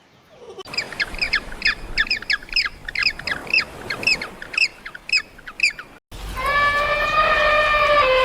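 A bird giving rapid, repeated squawking calls, three or four a second, for about five seconds. After an abrupt cut comes one long, steady farm-animal bleat.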